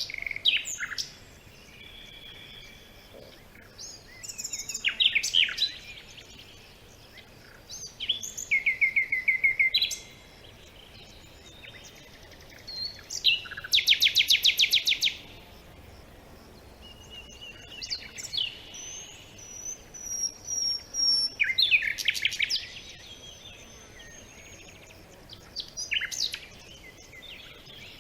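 Songbirds singing in short separate phrases with pauses between them, including a fast rattling trill about halfway through and a thin high whistle a little later, over a faint steady background hiss.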